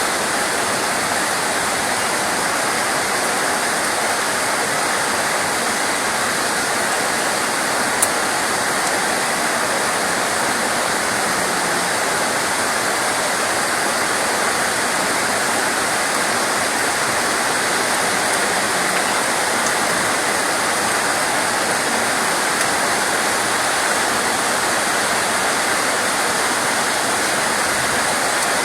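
Steady rain falling, an even, unbroken hiss of water, with one brief tick about eight seconds in.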